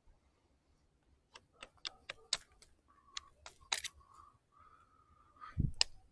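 Mango-tree stick being worked by hand into a skewer: a run of sharp cracks and clicks, then a squeaky scraping in short stretches, and a low thump near the end.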